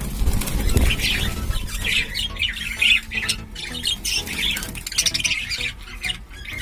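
A colony of budgerigars chattering and squawking, with many short overlapping calls. A low rumble in the first second.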